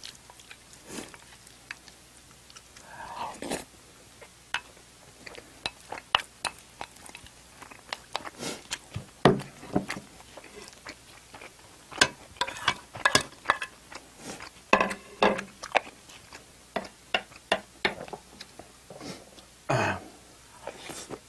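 A person chewing food with the mouth right at the microphone: irregular wet smacks and sharp clicks, bunched in short flurries.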